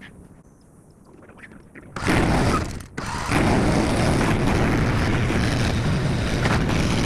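Skid steer loader running close by, a loud steady noise that starts suddenly about two seconds in, dips briefly a second later, then holds.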